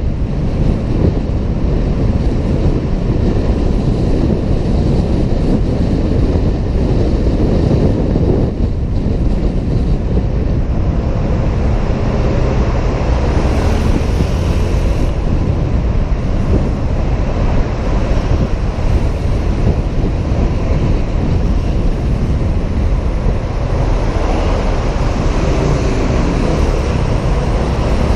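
Wind rushing steadily over a helmet camera's microphone while a Honda PCX 125 scooter is ridden, with the scooter's running and road noise underneath.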